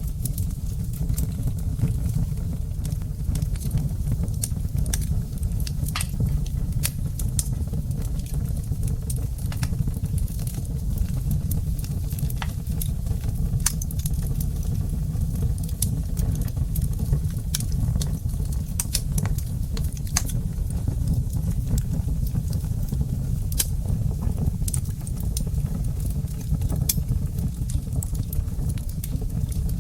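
Wood fire in a fireplace crackling, with frequent small sharp pops and snaps at irregular intervals over a steady low rumble.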